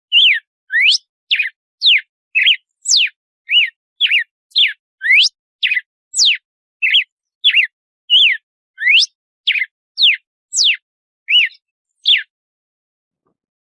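Red-cowled cardinal (galo-de-campina) singing its 'açoite' song: a fast string of clear whistled notes, about two a second, alternating quick upward and downward sweeps. The run stops near the end.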